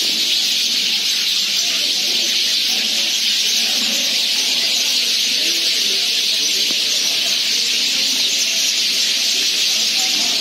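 A flock of sparrows chattering together, so many chirps at once that they blend into a continuous high-pitched wash.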